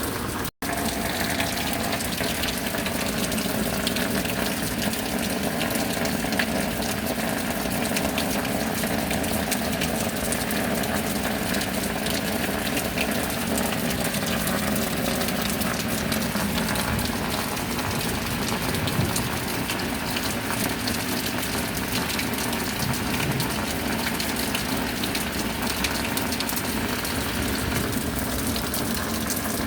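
Steady rain with water running and gushing. The sound cuts out for an instant about half a second in, then carries on unchanged.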